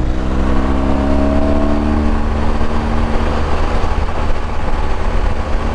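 Motorcycle engine accelerating on the highway, its pitch rising for about two seconds and then holding steady at cruising speed, over a heavy low rumble of wind and road noise.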